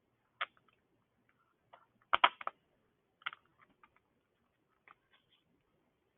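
A few light clicks and taps of small engine parts being handled as the air filter pieces are slid onto their mounting bolts, with a quick cluster of three or four clicks about two seconds in.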